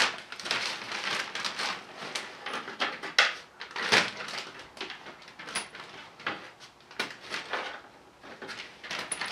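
Plastic zip-top bag crinkling in irregular crackles as it is handled and filled with bolts.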